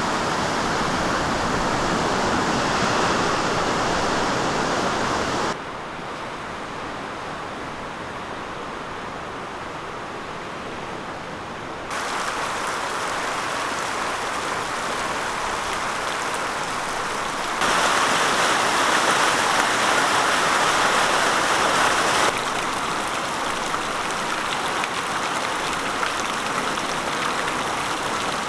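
Beck in full flood, fast brown floodwater rushing steadily. The noise drops sharply about five seconds in, then steps back up near twelve seconds and again near eighteen seconds before settling.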